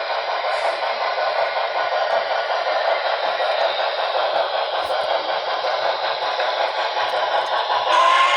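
Steady rushing train noise with a thin, tinny quality, and a train whistle or horn sounding again near the end.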